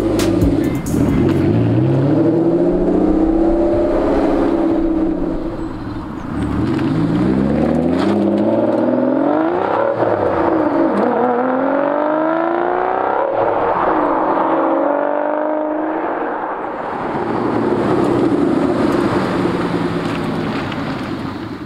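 Aston Martin DBS's 6.0-litre V12 accelerating hard through its manual gearbox: the engine note climbs in pitch and drops at each gear change, several times over. Near the end the car passes by, the sound swelling and then fading.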